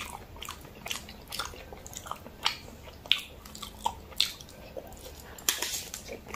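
Close-miked chewing of a mouthful of jajangmyeon (black bean sauce noodles), with wet mouth smacks and irregular sharp clicks a few times a second.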